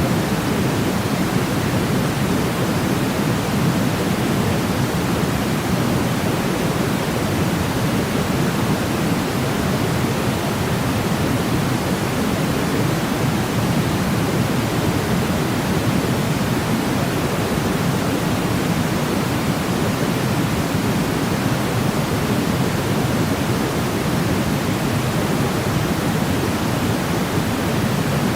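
Steady synthetic pink-style noise for sleep, an even hiss weighted toward the low end, with no changes or events.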